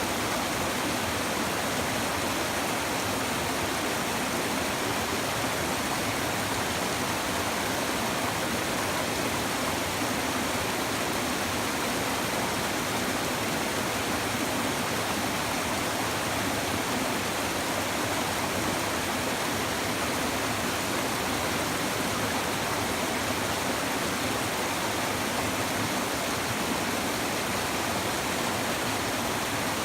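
A river's shallow water babbling over stones in a steady, unbroken rush.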